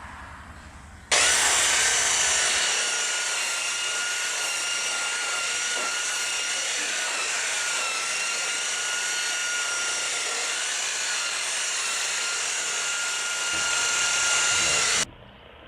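Electric polishing buffer switched on about a second in, running steadily with a high whine for about fourteen seconds, its pitch sagging briefly midway as it is pressed onto the work, then cut off abruptly. It is polishing overspray off a painted door hinge.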